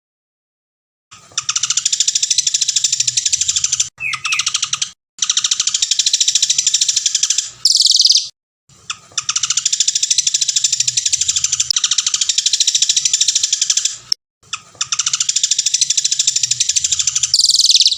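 A songbird singing long, rapid chattering trills of quickly repeated high notes in four bouts, with short breaks between them. A fast falling whistle closes the bout about eight seconds in and another near the end.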